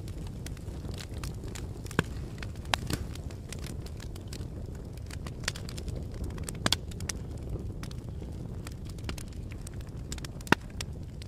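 Fire crackling: irregular sharp pops over a steady low rumble of flames, with one louder pop near the end.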